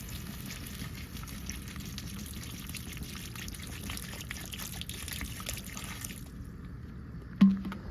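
Water poured onto a smouldering, burned microwave keypad to put the fire out: a steady pouring and hissing with scattered crackles that stops abruptly about six seconds in. A single knock follows near the end.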